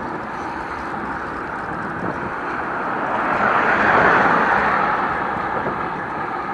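A rushing noise of wind and road traffic heard while cycling. It swells to its loudest about four seconds in, then fades.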